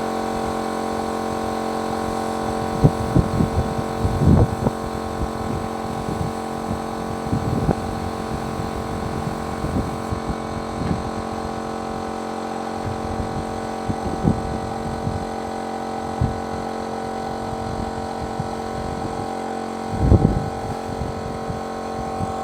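A machine running with a steady, even hum, with irregular knocks and bumps over it, a cluster of them a few seconds in and another near the end.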